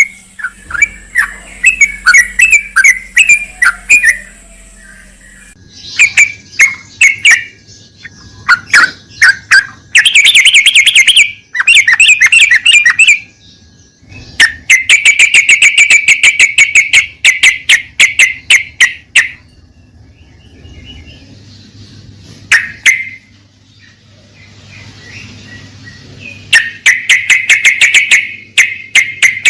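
Yellow-vented bulbul (trucuk) calling in bursts of fast, sharply repeated chattering notes, broken by short pauses.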